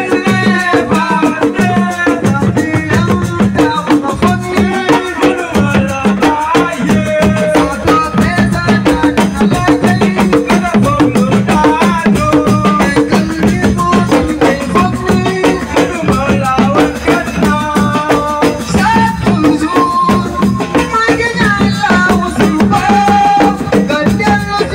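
Assiko band music: a singing voice over drums and a shaker-type rattle keeping a dense, steady beat.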